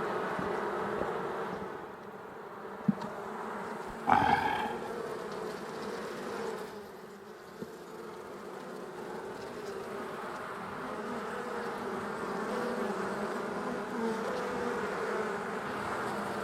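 Honey bees from an opened hive buzzing steadily around the frames. A sharp click comes about three seconds in, and a short, louder pitched buzz comes about a second after it.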